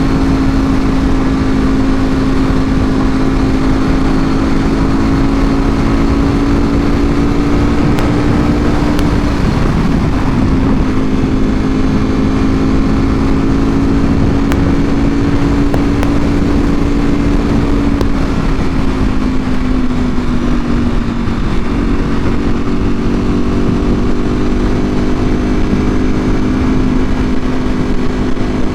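Ducati Panigale V4R's 998 cc V4 running through an Akrapovic full exhaust at a steady cruise, with wind rushing. The engine note wavers about ten seconds in, eases off briefly around twenty seconds, then settles back to its steady pitch.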